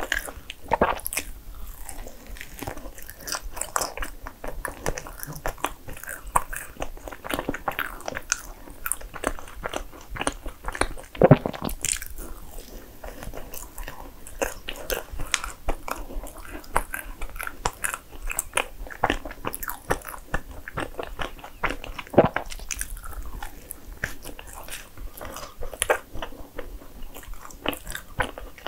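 Close-miked biting and chewing of a soft cream-filled bagel sandwich: a steady run of small wet mouth clicks and smacks, with two louder smacks near the middle and about two-thirds of the way through.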